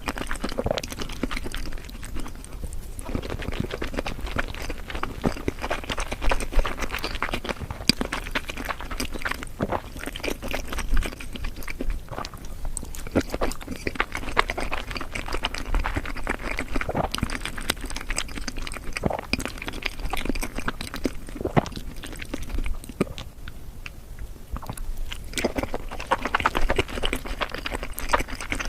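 Close-miked chewing of sushi and raw seafood sashimi: a steady run of soft, wet mouth sounds with many small irregular clicks and smacks.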